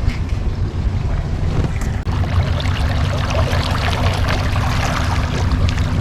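Small boat's motor running steadily under way, with water rushing and splashing past the hull. There is a brief drop about two seconds in, after which a steady low hum joins the rumble.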